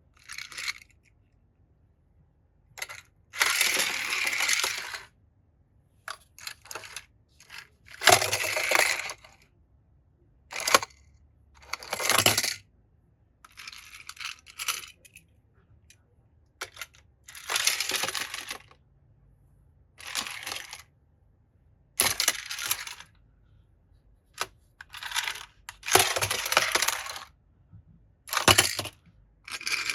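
Small hard toy cars clattering and rattling on a plastic track and against each other, in irregular bursts of one to two seconds with sharp clicks in between.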